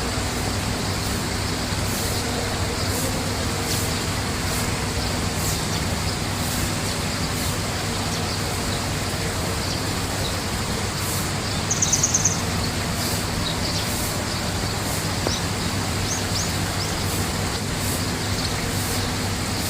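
Steady rushing background noise with a low hum and faint high clicks about once a second. A single bird gives a short, high, rapid trill about twelve seconds in, and a few faint chirps follow.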